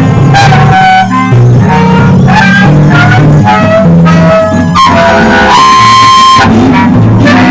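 Instrumental music: an ensemble of wind, bass and guitar playing shifting melodic lines over a bass part, with one long held note about two-thirds of the way through.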